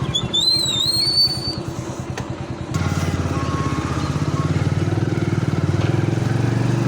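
Concrete mixer's engine running with a fast, even pulsing beat, becoming louder about three seconds in. A high, wavering whistle sounds over it in the first second and a half.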